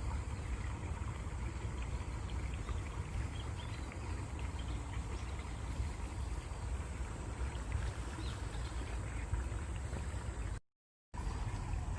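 Stream water running steadily, with faint short high chirps scattered through it. The sound cuts out completely for about half a second near the end, then resumes.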